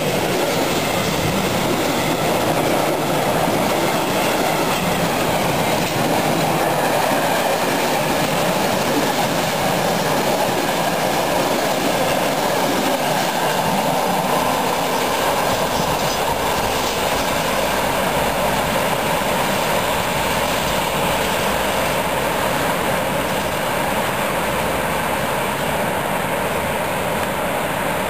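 Freight train wagons rolling past close by: a steady loud noise of steel wheels on rail, easing slightly near the end as the last wagon passes and the train moves away.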